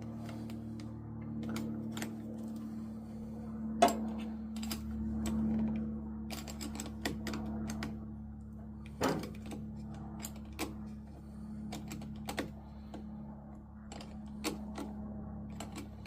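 Irregular clicks and metallic knocks of hand tools, a wrench or socket working on the mower's battery cable connections, with louder knocks about 4 and 9 seconds in, over a steady low hum.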